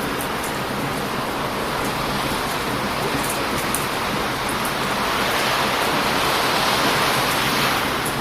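Heavy surf breaking on a beach, a steady rushing wash that swells into a louder wave about five seconds in and eases off near the end. Faint, scattered sharp pops of a crackling wood bonfire sit on top.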